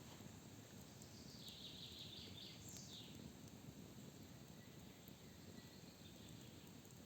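Faint forest ambience: a songbird sings a short phrase about a second in, followed by a quick falling call, over a low steady background hiss.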